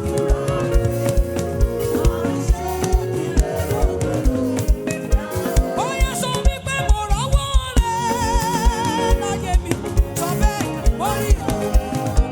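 Live gospel praise band music with a steady, fast drum beat and singing over it.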